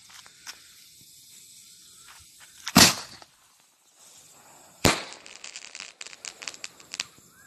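Aerial fireworks from a single colour firework tube: a loud bang a little under three seconds in, a second bang about two seconds later, then a quick run of sharp crackling pops as the shell's stars burst.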